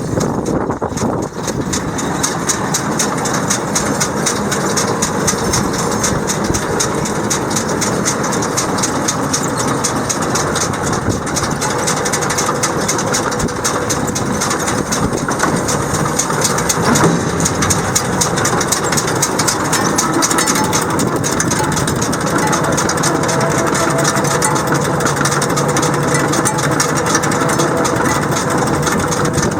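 Tractor engine running steadily while hitched to a New Holland 560 round baler, with a fast, even rattle of machinery throughout.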